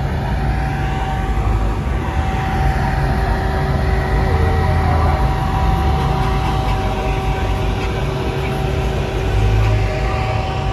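Mopar V8 engines idling with a deep, steady rumble that swells slightly a couple of times, with a steady whine running over it.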